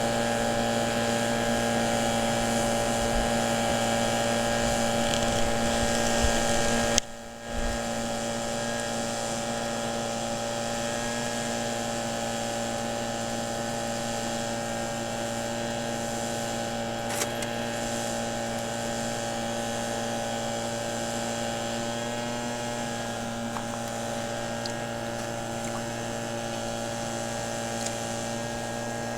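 Small gas engine of a gold-prospecting dry washer running steadily at constant speed, with a brief break about seven seconds in.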